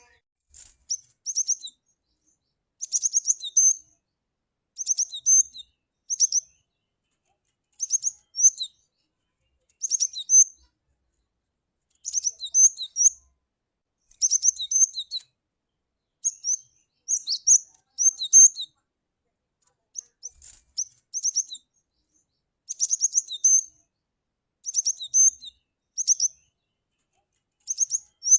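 Cinereous tit (glatik batu) calling: short clusters of high, quick chirping notes repeated about every two seconds, with clean silences between them.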